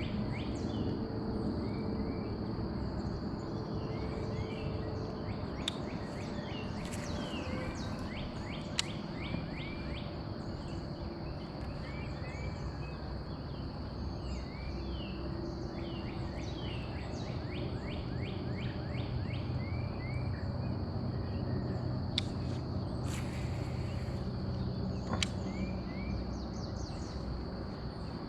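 Outdoor ambience of birds chirping over a steady high-pitched insect drone and a low, even rumble, with a few faint clicks.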